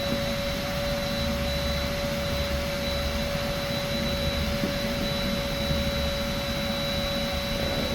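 Steady machine drone with a low rumble and a constant high whine, unchanged throughout.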